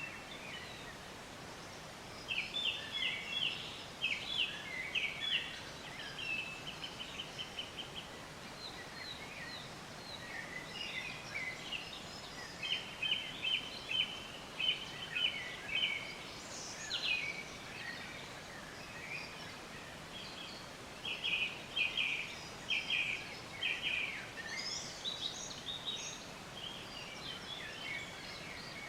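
Short, high chirping calls in quick runs of repeated notes, coming in bursts every few seconds over a steady outdoor background hiss.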